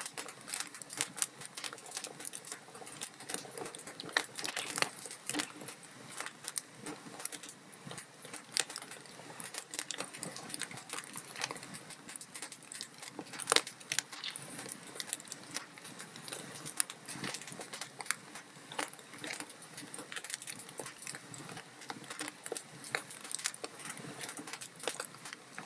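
Log fire crackling: a dense, irregular run of small crackles and pops, with one sharper, louder pop about halfway through.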